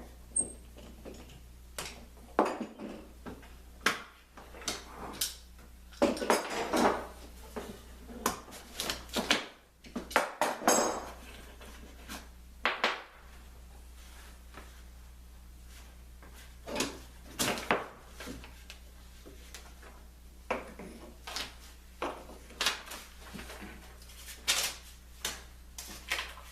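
Irregular knocks, clicks and clatter of woodworking tools and parts being picked up, set down and handled on a workbench, with a few longer scraping stretches.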